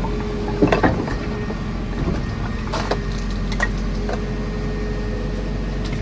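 JCB 4CX backhoe loader's diesel engine running steadily with a constant whine, while the bucket works rubble and brambles: several sharp cracks and clatters about a second in and again around three seconds in.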